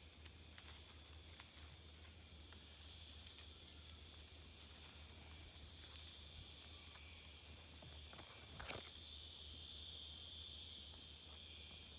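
Near silence: faint outdoor ambience with a steady high-pitched hiss and low hum, a few faint ticks, and a brief rustle or knock about nine seconds in.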